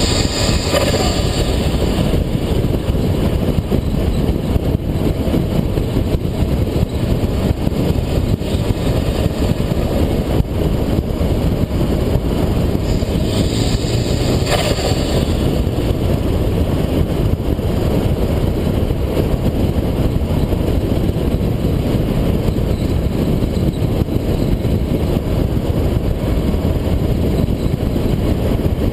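Tuned, turbocharged Subaru Impreza WRX STI cruising: a steady, low engine and road rumble, with a short burst of higher-pitched sound about halfway through.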